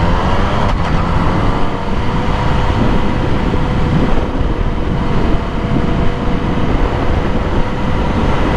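Motorcycle engine rising in pitch as it accelerates over the first couple of seconds, then holding a steady note while cruising, under loud rushing wind noise.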